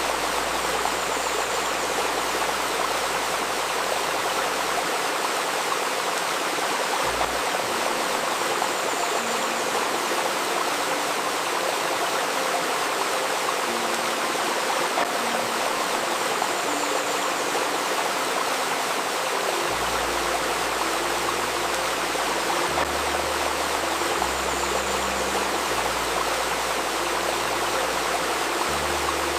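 Steady babbling stream. Underneath it, soft held tones change every few seconds, with low notes shifting beneath them: the layered 528 Hz healing-frequency sound.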